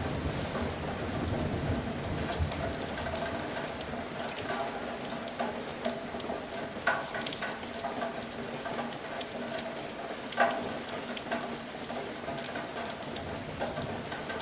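Steady rain falling, with individual drops striking close by and two louder drip impacts, about seven and ten seconds in. A low rumble fades away over the first few seconds.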